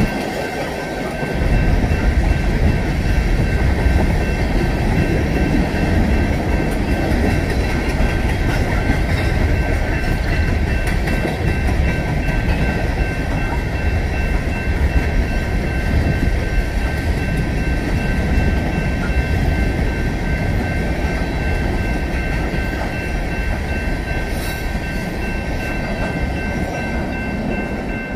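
BNSF freight train of coal cars rolling steadily past: a continuous rumble of steel wheels on the rails, with a faint steady high ringing tone underneath.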